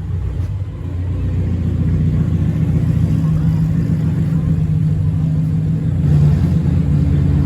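A car engine running with a steady low exhaust rumble, growing louder over the first second or so and then holding even.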